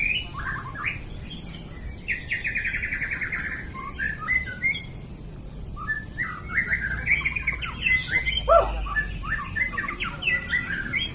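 White-rumped shama (murai batu) singing a varied song of quick whistled phrases, with a fast rattling trill about two seconds in.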